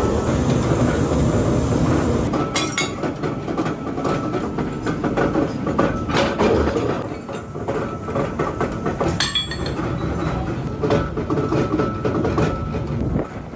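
Workshop machinery running with a steady rumble, broken by frequent short metal clinks and knocks.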